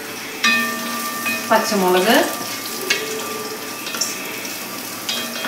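Chopped onions and green chillies sizzling in hot coconut oil in a brass uruli, with a wooden spatula stirring and knocking against the brass now and then. A steady hum runs underneath, and a brief wavering whine, the loudest sound, comes about one and a half seconds in.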